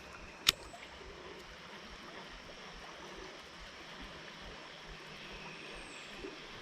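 Steady rush of flowing river water, with one sharp knock about half a second in.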